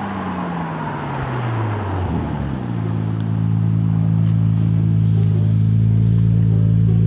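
Second-generation Honda NSX's twin-turbo V6 running as the car drives by: its note falls over the first two seconds as it slows, then settles into a steady low hum that grows a little louder as it rolls past close by.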